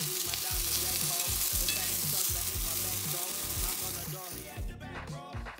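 Sliced white mushrooms and onions sizzling in oil and butter in a cast-iron skillet as they brown, stirred with a fork; the sizzle fades about four and a half seconds in. Background music with a steady beat runs underneath and comes to the front at the end.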